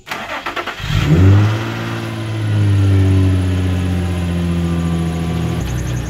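Infiniti G35's V6 with an aftermarket exhaust starting up. The starter cranks for about a second, the engine catches with a sharp rev flare, then settles into a steady fast idle that eases slightly lower.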